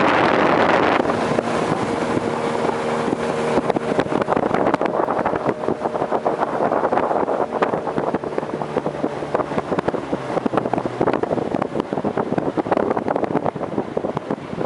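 Motorboat engine running steadily under way, with wind noise on the microphone and many short, irregular knocks throughout.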